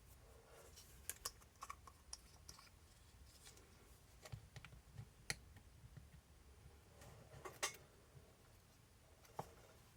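Scattered light clicks and taps of small RC shock parts being handled, irregular, with the loudest click about three-quarters of the way through, over faint room tone.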